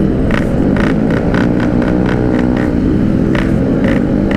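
Yamaha RX-King two-stroke motorcycle engine running steadily while ridden at speed, with wind rushing over the microphone.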